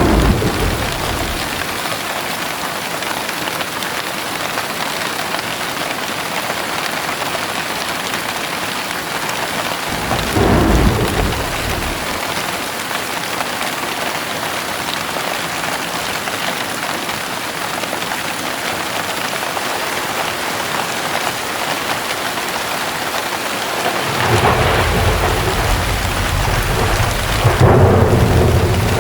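Heavy rain falling steadily, with thunder rumbling at the very start, again about ten seconds in, and a longer rumble building over the last five seconds.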